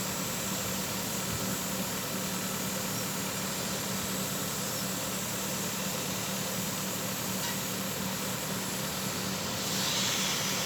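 Terex 815 backhoe loader's diesel engine running steadily, a constant hum under a broad, even noise. Near the end a brief hiss rises over it.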